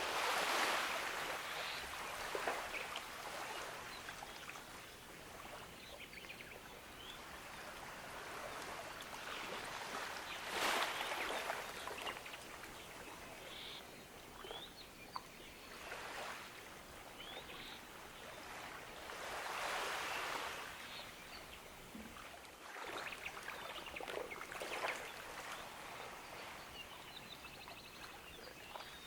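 Gentle ocean waves washing onto a beach, each surge swelling and then receding every nine or ten seconds over a steady hiss of water. A few faint bird chirps come between the waves.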